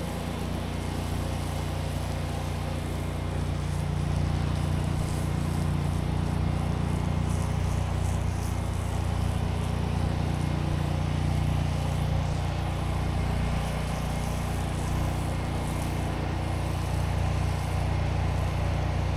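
Engine-driven pressure washer running steadily, a low engine hum under the hiss of high-pressure water spraying on concrete. Its pump is one the operator says is starting to give out, with weakened flow.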